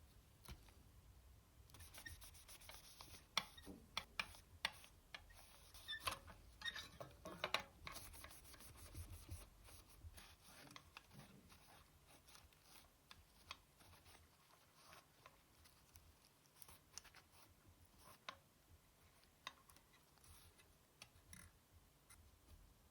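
Faint clicks, taps and short scraping and rubbing strokes from a PS4 hard drive being handled and cleaned by hand. The sounds are dense through the first half and sparser and softer after that.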